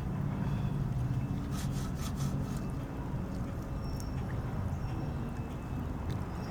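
A few quick rubbing strokes of a rag or sponge scrubbing the metal motorcycle frame about one and a half to two and a half seconds in, over a steady low hum.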